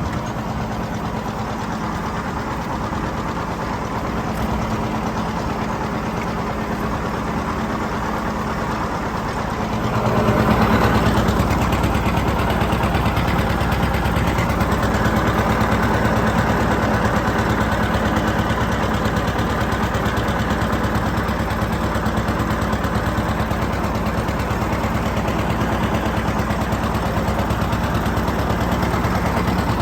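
John Deere 730 two-cylinder tractor engine running steadily. It gets louder and heavier about ten seconds in.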